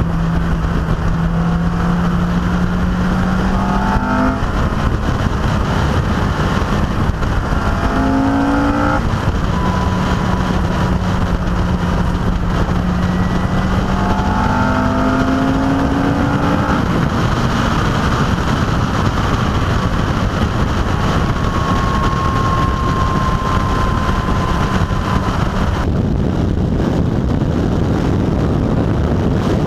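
Car engine pulling hard through the gears, its pitch climbing and then dropping back at upshifts about three times, under heavy wind and road rush on an outside-mounted camera.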